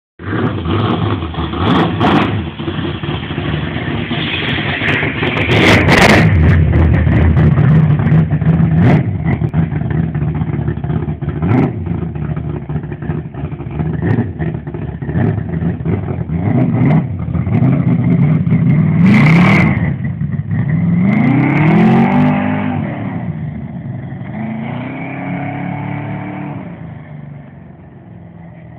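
Race car engine running loud and revving, its pitch sweeping up and down several times, with a few sharp clicks. It grows fainter near the end.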